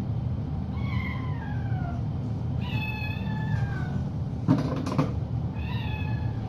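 A cat meowing three times, each meow a drawn-out call, the first two falling in pitch. Two sharp knocks come between the second and third meow, over a steady low hum.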